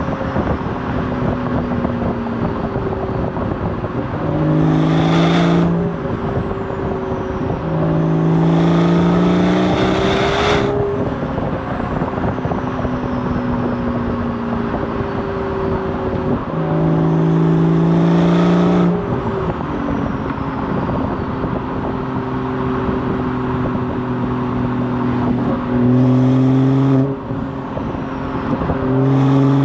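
BMW 440i's Gen 1 B58 turbocharged straight-six exhaust under hard acceleration, rising in pitch and getting louder in four pushes, with a fifth starting near the end. Between the pushes the engine note drops back and slowly falls in pitch as the car eases off.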